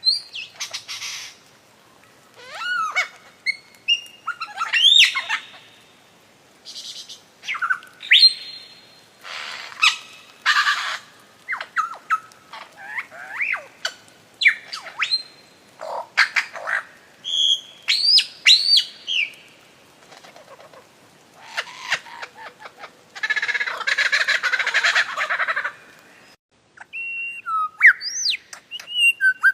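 Birds calling in a string of separate calls: sweeping whistles that rise and fall, short chirps and harsh squawks, with a longer rasping squawk about two-thirds of the way through.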